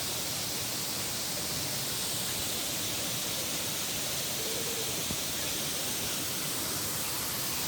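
Waterfall on the Agura River rushing: a steady, even hiss of falling water.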